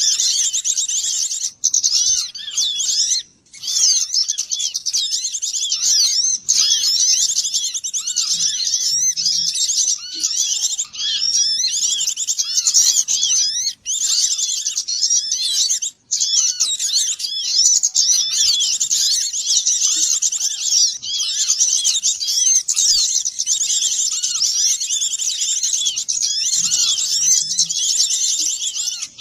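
Dense chorus of many small songbirds chirping and twittering at once, a constant mass of high, overlapping calls with some lower whistled notes mixed in: a small-bird lure recording. The chorus drops out for an instant a couple of times.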